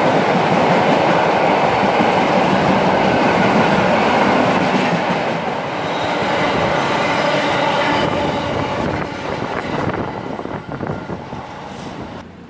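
A train passing through the station at speed on the near line: a steady, loud rush of wheels on rail and air, easing off over the last few seconds as the train clears.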